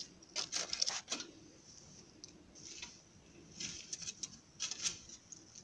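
Campfire crackling: faint, irregular pops and snaps.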